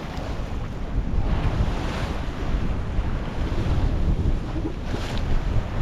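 Wind buffeting the microphone over the wash of the sea around a sailboat under sail, with two louder washes of water.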